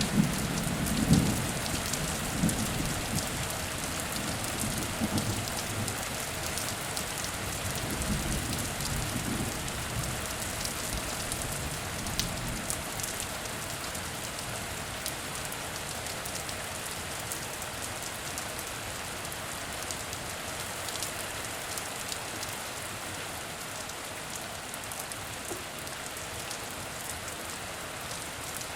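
Heavy rain falling steadily, with the low rumble of thunder dying away over the first few seconds.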